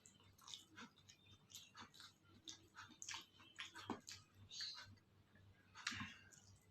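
A person chewing food close to the microphone: irregular wet mouth clicks and smacks, several a second, with a sharper click about four seconds in.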